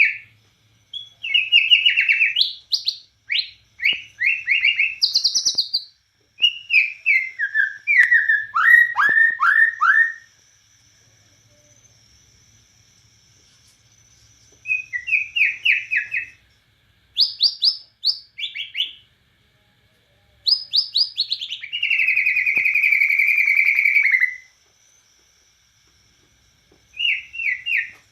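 Bornean white-rumped shama singing: phrases of quick, downward-sliding whistled notes repeated in runs, broken by pauses of a few seconds, with one long, even trill about three-quarters of the way through.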